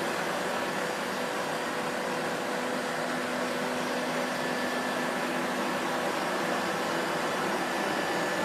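Vacuum cleaner motor running at a constant speed: a steady, even rushing noise with a faint hum under it and no changes in pitch or level.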